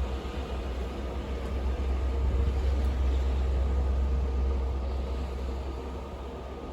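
Snowstorm wind blowing with a deep, steady rumble, swelling a few seconds in and easing off toward the end.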